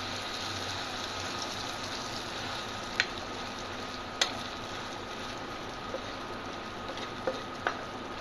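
Egg omelette frying in hot ghee in a frying pan: a steady sizzle, with a few sharp clicks of a metal spatula against the pan, the loudest about three and four seconds in.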